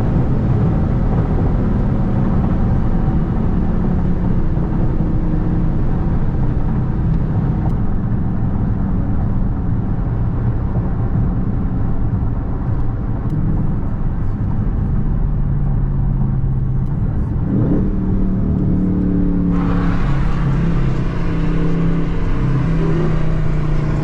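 Dodge Charger Scat Pack's V8 engine and road noise heard from inside the car while cruising at a steady pace. The engine note shifts with a short rising rev about three-quarters of the way through, and soon after a louder rush of air noise comes in suddenly and holds.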